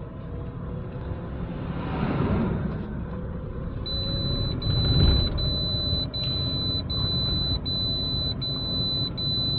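Mahindra Bolero SLX diesel SUV heard from inside the cabin while driving: steady engine and road rumble. About four seconds in, a high electronic warning chime starts and keeps beeping a little more than once a second.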